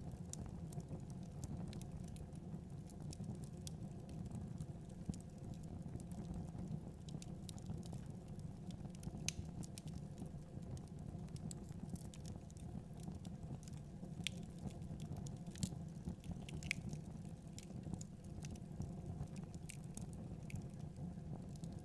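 Wood fire in a fireplace crackling: irregular sharp snaps and pops of burning wood over a steady low rumble of the flames.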